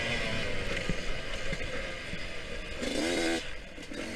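Yamaha YZ125X two-stroke dirt bike engine running under throttle, with wind rush on the microphone. The revs climb about three seconds in, then drop off as the throttle closes near the end.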